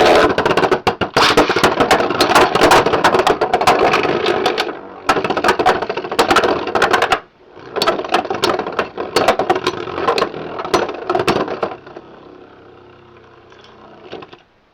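Beyblade X tops clashing and rattling in a plastic stadium, a rapid, dense clatter of hits. It breaks off briefly about seven seconds in, resumes, and then sinks to a faint whir near the end.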